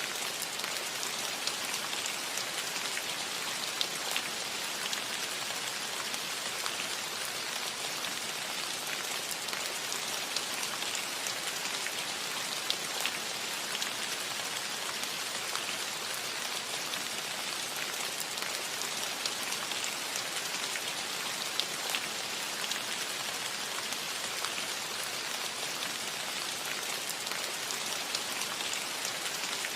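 Steady rain falling on a cottage roof, an even hiss with many small drop ticks scattered through it.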